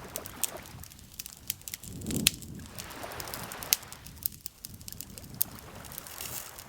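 Wood campfire crackling, with irregular sharp pops, the loudest about two seconds in, over soft swells of lake water lapping.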